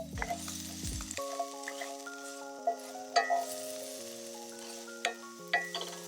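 Food frying in a cast-iron skillet: a steady sizzle with sharp crackles now and then. Background music with held chords plays over it.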